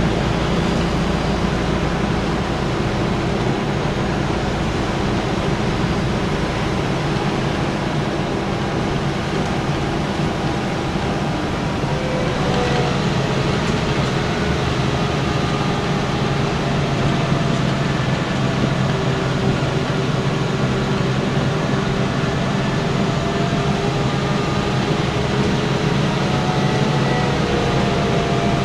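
Scania N94UB single-deck bus driving, its diesel engine running under a steady road and drivetrain noise. The engine note rises about twelve seconds in and again later as it pulls.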